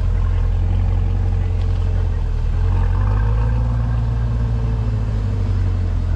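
Car engine running with a deep, steady rumble that rises and shifts slightly in pitch around the middle before settling again.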